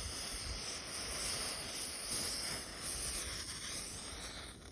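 Steady low hiss and rustle of a small campfire of paper and sticks burning weakly, close to going out.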